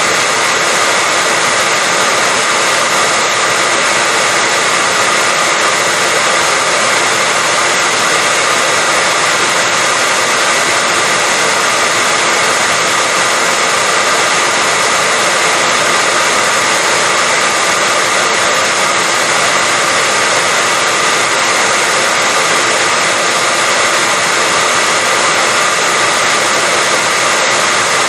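Electric hair dryer running continuously at a steady speed, a loud even rush of blown air with a faint high whine from the motor, played as white noise to lull a baby to sleep.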